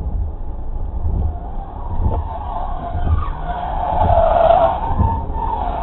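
Car tyres squealing in a skid over a low road rumble. The squeal builds, wavers in pitch, and is loudest about four seconds in.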